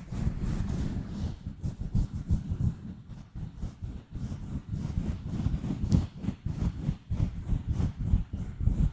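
Gentle scratching and rubbing directly on a microphone: a quick, irregular run of soft scratch strokes with a heavy low rumble and fine crackly clicks on top.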